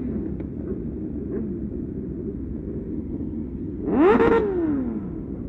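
Sport motorcycle engines running, with one bike revved hard about four seconds in, its pitch climbing sharply and then falling away.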